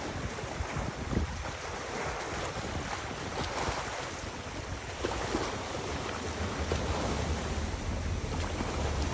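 Wind buffeting the microphone with a low rumble, over a steady rush of river water.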